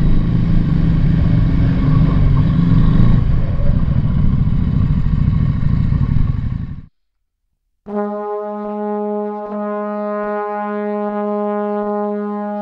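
Motorcycle running on the road with wind noise on the microphone, cutting off abruptly about seven seconds in. After a second of silence, brass-led music with long held chords begins.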